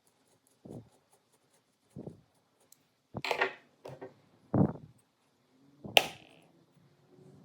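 Hand tool work on metal parts: soft knocks roughly every second and a bit, then a few heavier scraping strokes and one sharp metallic clank about six seconds in.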